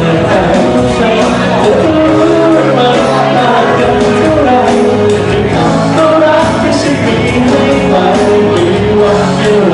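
Live band performance of a Thai pop song, with a male singer's melody carried over steady band accompaniment.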